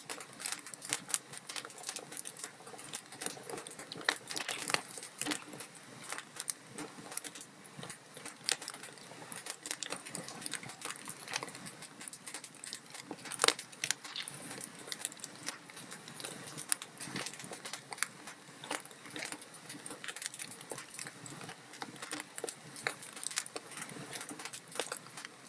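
Log fire crackling: a dense, irregular run of small pops and snaps from burning wood over a soft hiss, with one louder pop about halfway through.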